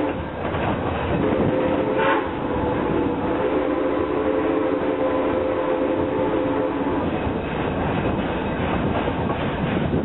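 Zoo train drawn by steam locomotive 119 running along the track, with a long steady tone sounding from about one second to about seven seconds in.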